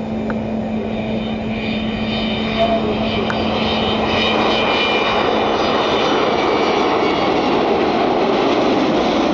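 Avro Vulcan XH558's Rolls-Royce Bristol Olympus jet engines passing in a flypast: a steady jet rumble that grows louder about two seconds in. High whining tones sit over it for a few seconds.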